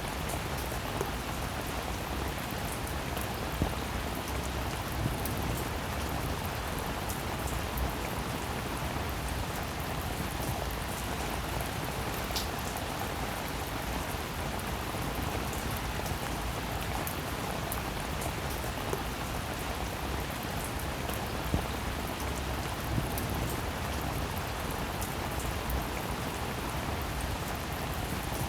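Steady rain falling: an even hiss with single louder drops tapping now and then.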